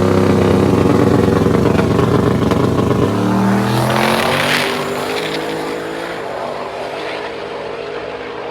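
Chevrolet Camaro accelerating hard down a drag strip at full throttle. The engine pitch climbs, drops at upshifts about three and six seconds in, and the sound fades as the car pulls away.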